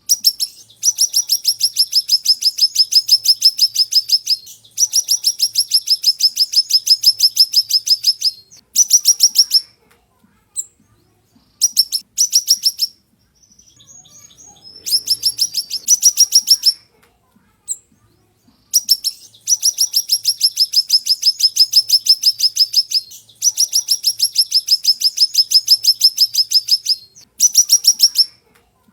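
Siri-siri songbird singing a sharp, high song: long trills of fast repeated notes lasting several seconds each, broken by short bursts and brief pauses, with a short lull about midway.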